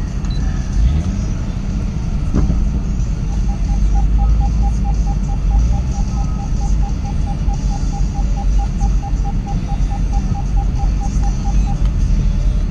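Jaguar F-Type SVR's supercharged V8 running with a steady low rumble. From about three seconds in, a rapid electronic beeping, about five beeps a second, runs for roughly eight seconds over it.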